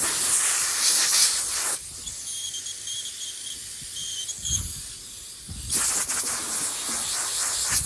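Compressed-air blow nozzle hissing in two long blasts, blowing dust off the inside of a furnace door; the first blast cuts off about two seconds in and the second starts around six seconds in.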